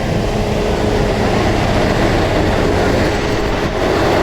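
A train running close by: a loud, steady rumble with no clear rhythm, most likely the CT273 steam-hauled excursion train.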